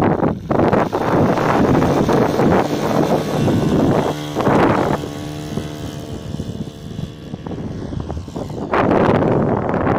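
Rough wind-like noise buffeting the microphone, with a steady engine drone coming through in the middle when the noise eases.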